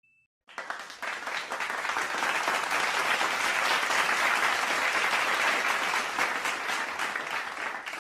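Applause from a crowd, many hands clapping densely, building up and then dying away.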